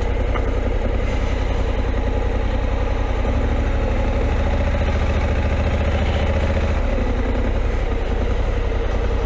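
Honda CRF1100L Africa Twin's parallel-twin engine running at low revs as the motorcycle is picked slowly along a slippery clay track, working a little harder for about three seconds in the middle.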